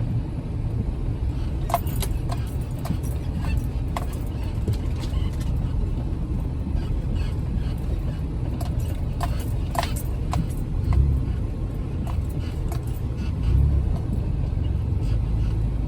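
Jeep Wrangler driving slowly over a snowy off-road trail: a steady low rumble from the engine and drivetrain, with scattered knocks and rattles as it bumps along, and heavier surges about eleven and thirteen seconds in.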